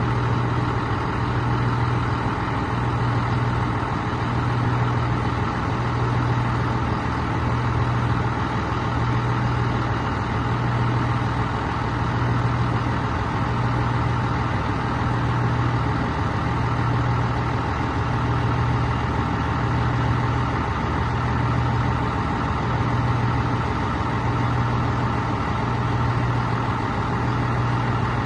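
1990 Scania 113H-320 truck's 11-litre straight-six turbo diesel idling steadily, its low hum swelling and fading about every second and a half.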